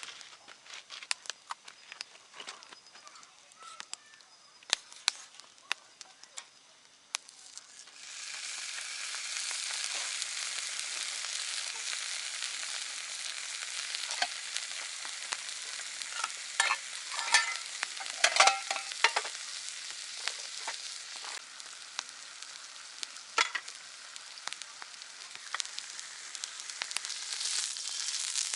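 A campfire crackles with scattered sharp snaps. About eight seconds in, food starts sizzling steadily as it cooks over the heat, with pops and crackles through the sizzle.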